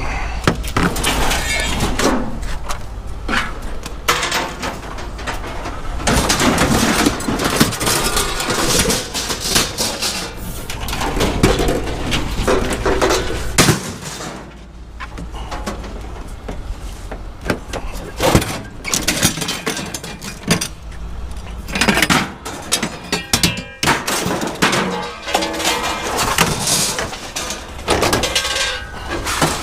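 Scrap metal being tossed onto a pile, with irregular clangs, crashes and clatter of sheet iron and steel pieces hitting each other, some ringing briefly. A low steady rumble runs underneath.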